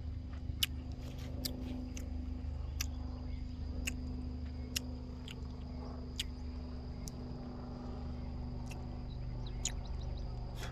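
Steady high-pitched insect drone, like crickets, over a low steady hum, with a dozen or so sharp irregular clicks scattered through.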